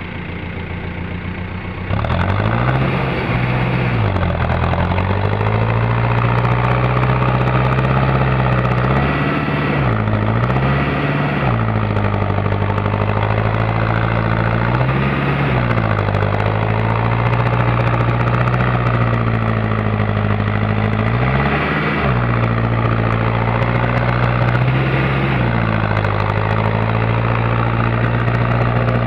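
Mahindra Arjun Novo tractor's diesel engine running hard, louder from about two seconds in, its pitch sagging and recovering about six times as it labours under load while the stuck tractor tries to pull free.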